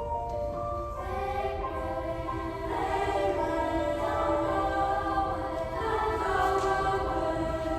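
Junior youth choir singing with piano accompaniment, the voices growing louder about three seconds in.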